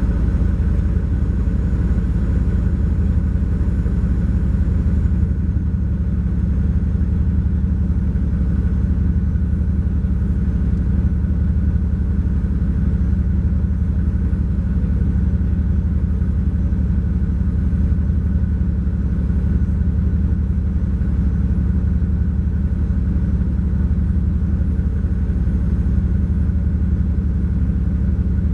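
A 2012 MCI J4500 coach's Cummins ISX12 diesel engine running steadily, heard from on board the coach, with a deep, even rumble and no revving.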